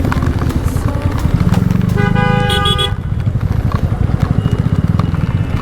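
A vehicle horn honks once, a steady tone lasting about a second, about two seconds in, over the steady low rumble of traffic and an idling motorcycle in heavy rain.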